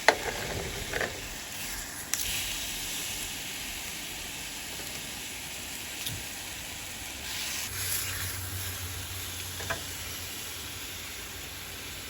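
Steak frying in a cast iron skillet, a steady sizzle, with a few sharp clicks of utensils against the pan near the start and again later.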